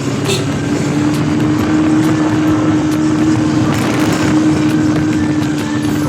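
Motorcycle engine running at a steady pitch while riding, with road and wind noise underneath.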